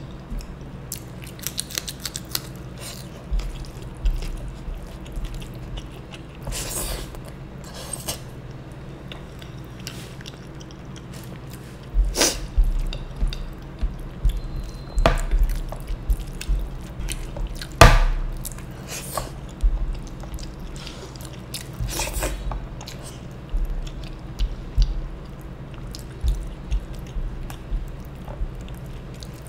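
Close-miked eating: a person chewing mouthfuls of rice and rajma curry mixed with a crunchy fried topping, eaten by hand, with many small wet mouth clicks. The chewing grows louder and busier around the middle.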